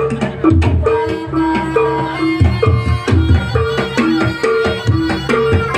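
Live Javanese jaranan music: hand drums beating in a steady pattern under a repeating two-note melodic figure, with higher pitched instruments ringing above.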